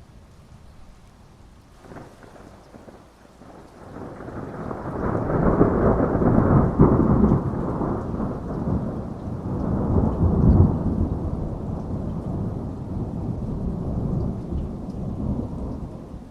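Thunder over steady heavy rain: a faint crack about two seconds in, then a long low rumble that builds, peaks twice and slowly dies away near the end.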